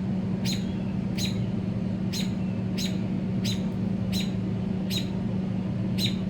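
A parent bird chirping repeatedly, one short sharp chirp a little more than once a second, over a steady low hum.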